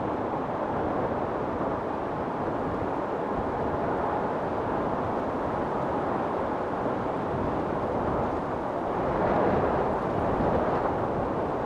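Wind storm blowing in a steady, rushing noise, swelling into a stronger gust near the end.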